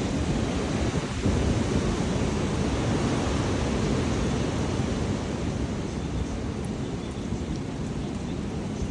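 Strong wind blowing in gusts and buffeting the microphone, a steady low rushing rumble that swells a little about a second in and eases slightly toward the end.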